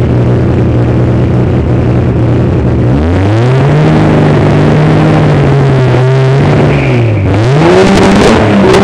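Car engine running at a steady pitch for about three seconds, then revving up sharply and holding high. Near the end it drops and climbs again twice in quick swings, as under hard throttle during a drift run.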